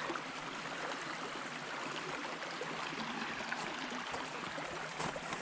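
Creek water running steadily, with one short knock near the end.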